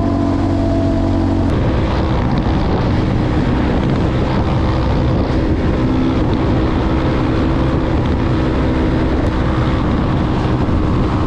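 Motorcycle engine running while riding, with wind on the microphone; the engine note shifts about a second and a half in.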